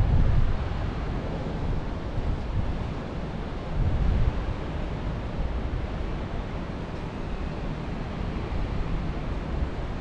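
Wind blowing through the forest, a steady rushing with gusts that buffet the microphone at the start and again about four seconds in.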